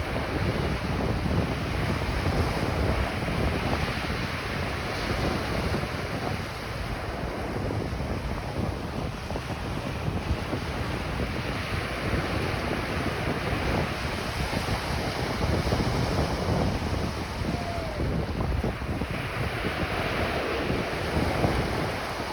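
Ocean surf washing steadily onto a beach, its level swelling and easing gently, with wind rumbling on the microphone.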